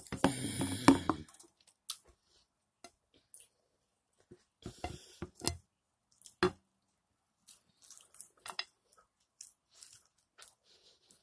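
Close-up eating sounds: a person biting and chewing steak held in the fingers, with scattered short mouth clicks and smacks. A louder, dense burst of noise fills the first second or so.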